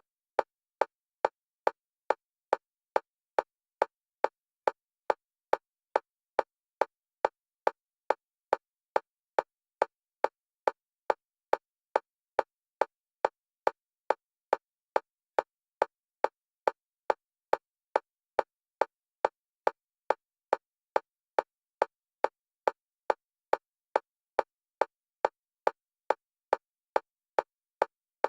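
Steady single-pitch metronome clicks for EMDR bilateral stimulation, alternating between the left and right stereo channels. The clicks are identical and evenly spaced, a little under two a second.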